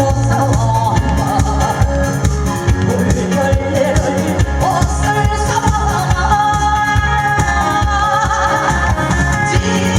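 A singer singing a Korean trot song over loud accompaniment with a steady, even beat.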